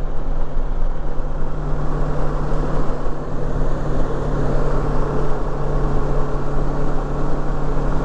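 2019 Kawasaki Versys 650's parallel-twin engine running steadily at a constant cruising speed, its note holding an even pitch, under a heavy rush of wind and road noise.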